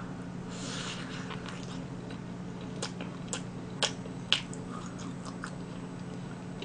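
A person chewing a bite of spicy sauced roast chicken close to the microphone, with several sharp wet mouth clicks in the middle, over a steady low hum.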